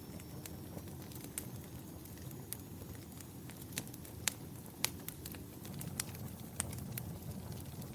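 Wood fire crackling in a fireplace: irregular sharp pops over a low, steady rumble of flames. A faint thin whistle sounds in the first few seconds.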